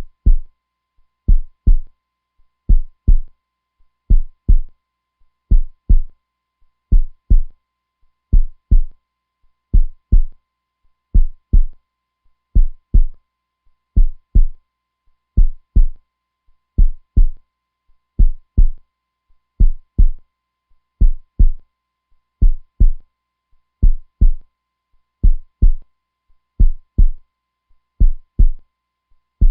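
Heartbeat: a steady, slow lub-dub, each beat a pair of deep thumps, repeating about once every 1.4 seconds.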